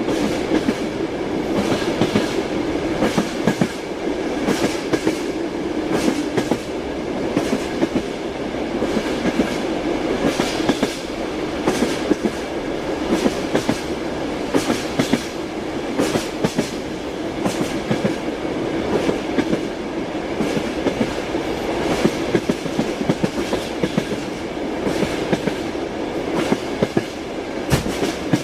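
Train wheels clacking over rail joints in a steady rhythm, often in pairs every second or two, over a continuous rolling rumble of the running train.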